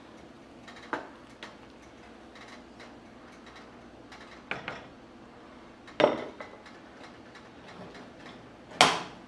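Kitchenware knocking and clinking: about five sharp knocks of dishes or utensils, the two loudest about six seconds in and near the end.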